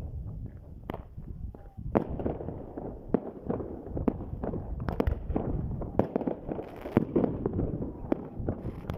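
Fireworks going off: irregular sharp bangs, often several a second, over a continuous low rumble and crackle.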